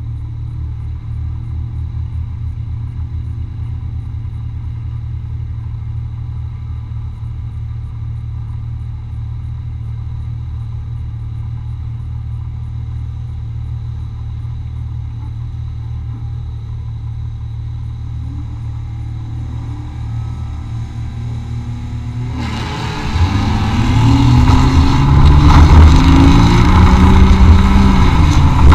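Off-road race vehicle's engine heard from inside the vehicle, running with a steady low drone. About three-quarters of the way in it gets much louder: the engine revs up and down under load and a loud noisy rattle joins it.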